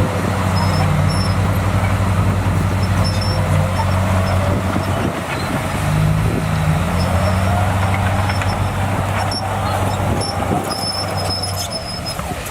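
Bulldozer's heavy diesel engine running steadily under load, with a faint squeal that rises and falls in the middle.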